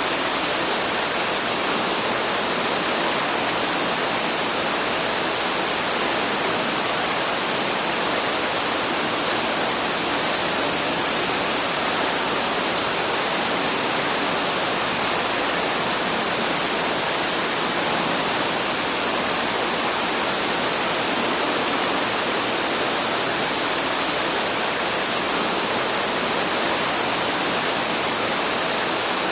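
Waterfall rushing: a steady, unbroken hiss of falling water with no change throughout.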